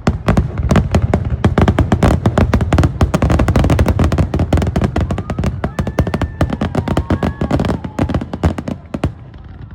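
Fireworks going off in a rapid, dense barrage of bangs and crackles that thins out about nine seconds in.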